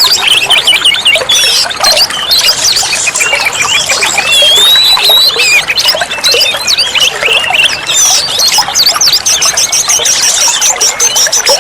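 Oriental magpie-robin (kacer) singing a loud, unbroken run of varied whistles, squeaks and fast trills, with a rapid high repeated series near the end.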